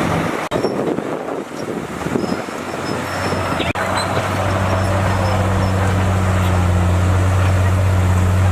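Heavy-equipment diesel engine running, broken by two abrupt cuts in the sound. After the second cut, a little under halfway through, it settles into a steady low drone.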